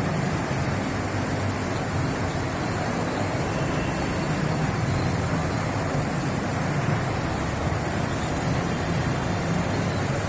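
Steady rushing outdoor noise with a low rumble underneath, even throughout, with no distinct events.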